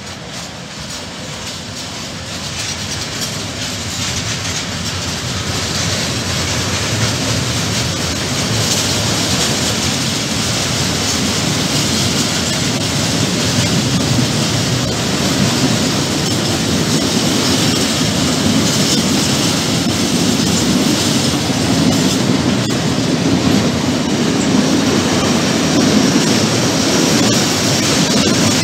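Freight train of intermodal flat wagons rolling past close by, the wheels clattering over the track. It grows louder over the first several seconds, then holds steady.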